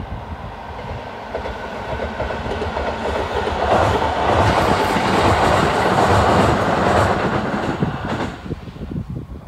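Tobu 20400 series electric commuter train passing: wheels clattering over rail joints under a rushing rumble that swells to its loudest a few seconds in, then falls away sharply near the end.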